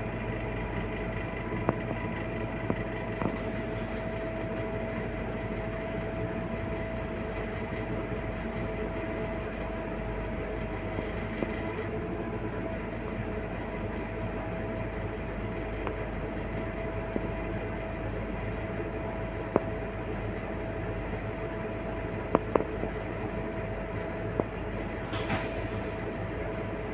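Scania K230UB bus running with its five-cylinder diesel: a steady rumble under a constant whine, with a few sharp rattles or knocks along the way.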